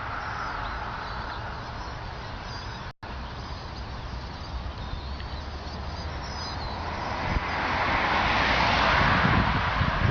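Outdoor ambience: a steady rush of wind or distant traffic with faint, high bird chirps. The sound cuts out completely for a split second about three seconds in, and the rushing noise swells louder from about seven seconds in.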